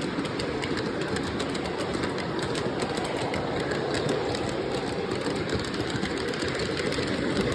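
Lionel Legacy AC6000 model diesel locomotive running on O-gauge track: a steady running rumble with rapid fine clicking from the wheels on the rails, mixed with its RailSounds diesel engine sound.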